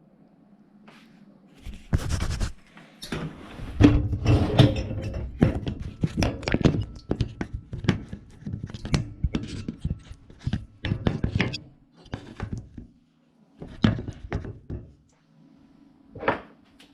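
Close, irregular knocks, clatters and scrapes of handling inside a dishwasher, as dishes and racks are moved and the camera is fixed in place; two separate knocks near the end. A faint steady low hum runs underneath.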